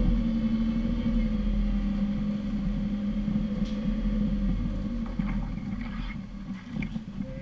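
Off-road 4x4's engine running at low, steady revs as the vehicle crawls along a rough dirt track, a steady drone that eases off slightly. In the second half there are scattered knocks and rattles as it rides over the ruts.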